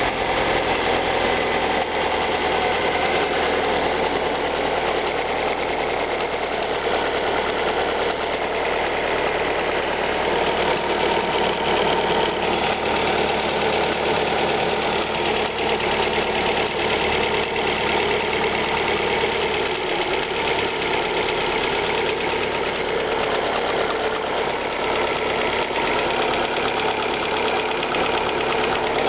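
Alfa Romeo 156 1.8 Twin Spark four-cylinder engine running steadily at idle from a cold start, with a fast, continuous ticking over the engine note.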